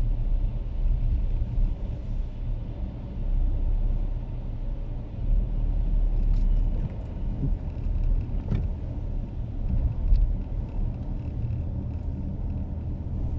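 Car engine running with a low, steady rumble; a single short click about eight and a half seconds in.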